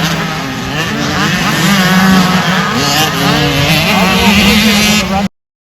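Dirt bike engine running and revving, its pitch rising and falling, with a strong steady engine note underneath; the sound cuts off abruptly near the end.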